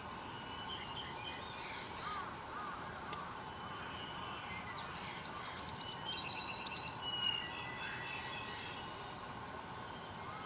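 Several wild birds calling and singing over a steady outdoor hiss, with a few low looping notes about two seconds in and a quick run of high, chirpy notes about halfway through.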